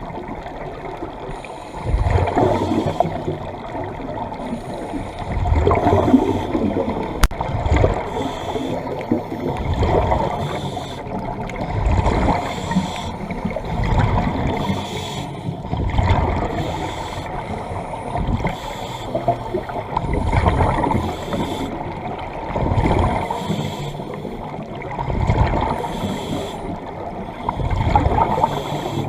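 Underwater scuba breathing: a diver's exhaled air gurgles out of the regulator in bubbly surges every two to four seconds.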